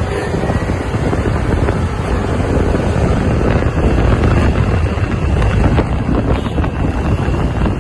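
Wind buffeting the microphone of a moving motorcycle, over the steady rumble of its engine and the road.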